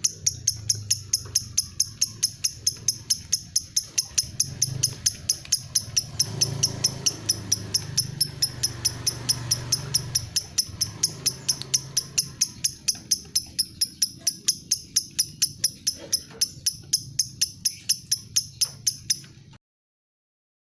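Lovebird "ngetik" call: a long, even run of short, high, sharp ticking chirps, about four or five a second, over a faint low hum. It stops suddenly near the end.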